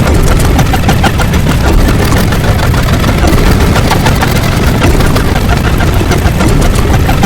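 Loud, steady rumbling noise, heaviest in the low end, with a dense crackle running through it.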